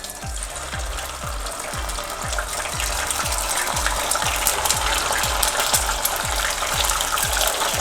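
Marinated chicken pieces sizzling and crackling in hot oil as they go into the pan to deep-fry, growing a little louder. Background music with a steady low beat, about two to three pulses a second, runs under it.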